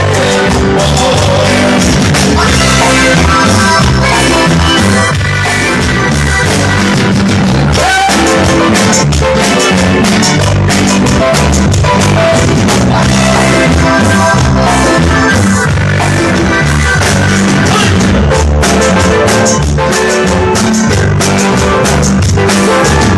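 Latin tropical band music: drums, bass and guitar playing a steady dance beat.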